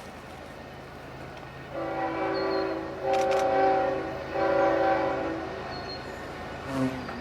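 Air horn of a CN GE ES44AC diesel locomotive leading a freight train, sounded as a salute: three chord blasts, a shorter softer one followed by two longer, louder ones. A steady low rumble from the train runs underneath.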